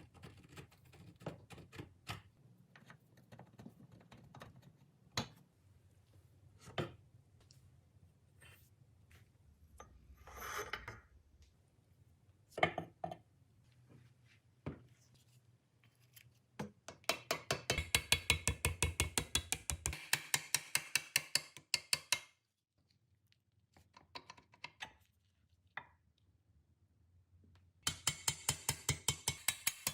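Scattered clicks and knocks of metal work, with a short hiss about ten seconds in. Then a ratchet mechanism clicks rapidly and evenly, about seven clicks a second, for several seconds around two-thirds of the way through, and again near the end.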